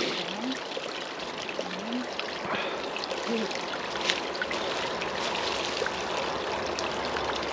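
Shallow water running and trickling steadily across the trail, with a few faint clicks and three short low rising sounds in the first half.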